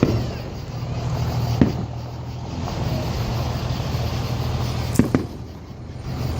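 Firework explosions: four sharp bangs, one at the start, one about a second and a half in, and a close pair near the end, over the steady low hum of a vehicle engine.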